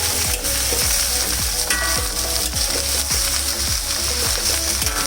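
Fried rice sizzling in an oiled pan as it is stirred, over a steady low hum.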